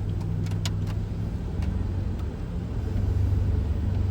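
Car running while driving, heard from inside the cabin: a steady low engine and road hum, with a few light clicks about half a second in.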